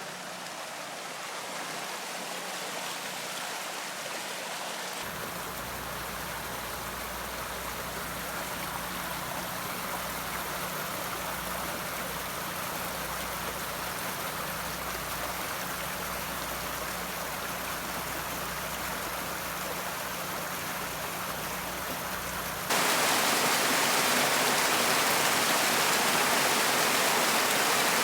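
Rushing water of a flood-swollen creek, a steady noise that changes abruptly about five seconds in and gets louder near the end.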